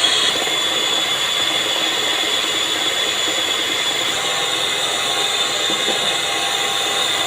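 Scarlett electric hand mixer running steadily, its beaters whisking egg in a bowl: a steady motor whine.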